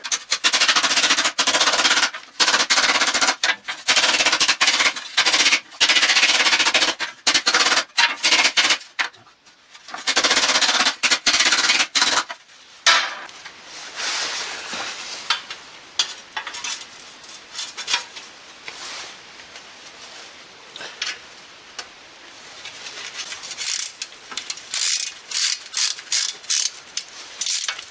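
Metal being worked by hand on a thin, bent steel dust-shield plate: runs of fast, harsh rasping strokes, loud at first, then sparser, with another rhythmic run near the end.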